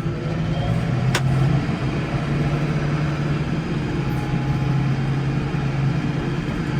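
Case 115U tractor's diesel engine running at a steady speed, with a single sharp click about a second in.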